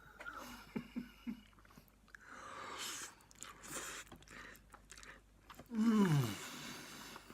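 A person eating noodles: small mouth clicks and chewing, then breathy hissing intakes, and about six seconds in a short loud groan that falls in pitch, a reaction to the chilli heat of the very spicy ramen.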